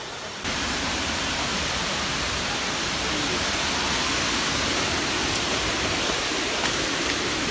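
Ouzoud waterfall: the steady rush of a large volume of falling water, starting abruptly about half a second in and holding level.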